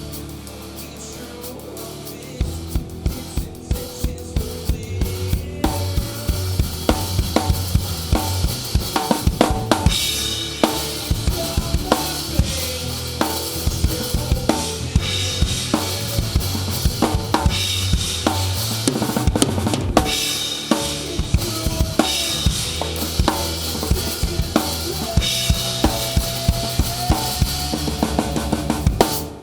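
A live rock band playing an instrumental passage, with the drum kit close and loud (bass drum and snare hits keeping a driving beat) over pitched instruments. The music stops suddenly near the end.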